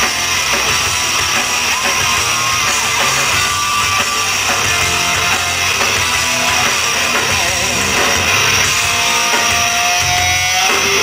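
Live rock band playing loud through a club PA: distorted electric guitar, bass and drum kit in an instrumental passage with no singing, with a few held guitar notes near the end.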